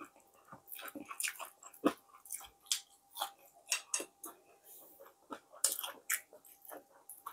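Close-miked chewing and wet mouth clicks from someone eating fried tilapia, with irregular short crackles as the crisp fried fish is picked apart by hand.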